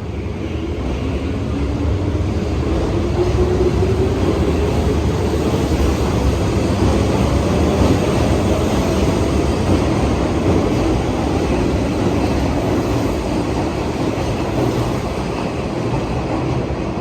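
Hanshin 8000-series electric train pulling away. Its motor whine rises steadily in pitch for about ten seconds as it gathers speed, over a steady low rumble of the wheels on the rails.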